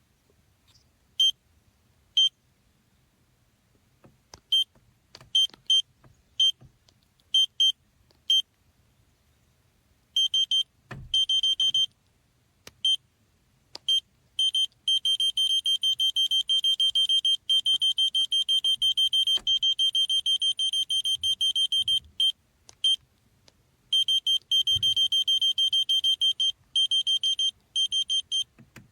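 Electronic beeping at one high pitch: short single beeps at uneven intervals, then long stretches of steady beeping broken by brief gaps. A few faint low thumps under it.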